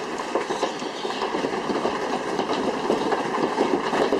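Large hailstones pelting down, a dense, unbroken clatter of sharp irregular impacts.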